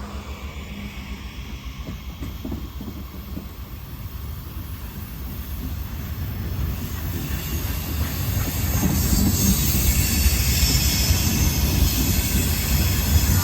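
Norfolk Southern train approaching on the rails, its low rumble growing steadily louder. A high hiss and wheel squeal build up over the second half.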